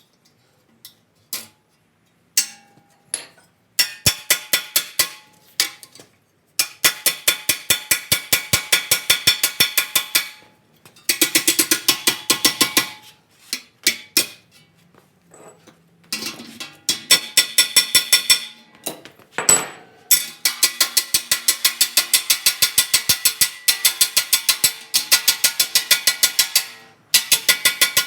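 Hammer striking sheet steel in quick, even runs of blows, about four a second, with short pauses between runs: shaping and stretching a door patch panel.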